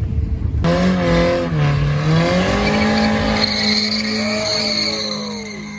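A car doing a burnout: the engine held at high revs, wavering up and down, with the tyres squealing against the pavement. It starts about half a second in and tapers off near the end.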